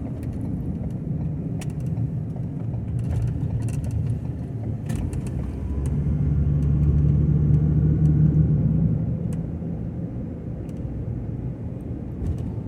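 Ford Transit camper van on the road: a steady low rumble of engine and tyres heard from inside the van, swelling louder for a few seconds in the middle, with a few faint light ticks.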